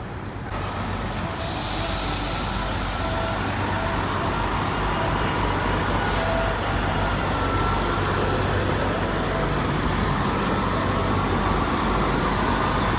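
Diesel semi-truck engines running steadily, with a short hiss of air about six seconds in.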